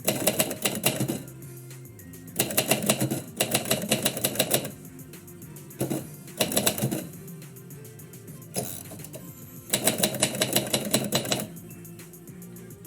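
Typewriter keys striking in four quick bursts of typing, with pauses of a second or two between them, over steady instrumental background music.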